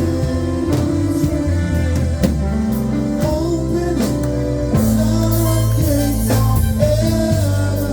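Live gospel music: a band with bass, drums and keyboard or guitar playing steadily, with a voice singing over it.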